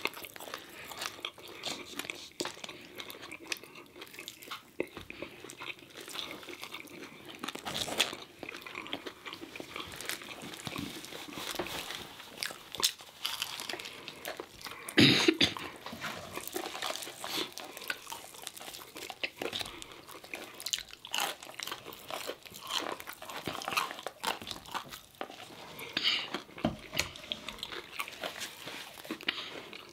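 Close-miked chewing and crunching of fried food (breaded fish, chicken strips, fries), many small sharp crackles and mouth sounds with no words, and one louder sharp sound about halfway through.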